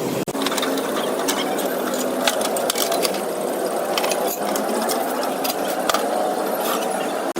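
A small machine running steadily with a fast mechanical rattle and scattered sharp clicks.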